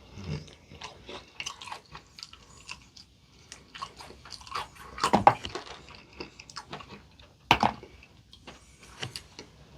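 Close-up chewing of crispy potato-crusted fried chicken, a run of small crackling crunches with two louder crunching bites, about five seconds in and about seven and a half seconds in.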